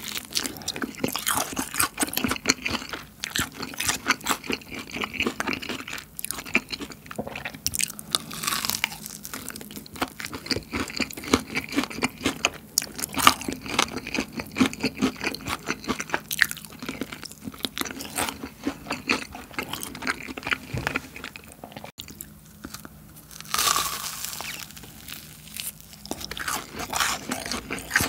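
Close-up crunching and chewing of crispy, seasoned fried chicken (BHC Bburinkle) as it is bitten and chewed, the crackly coating breaking with each bite. There are louder crunches about eight seconds in and again near the end.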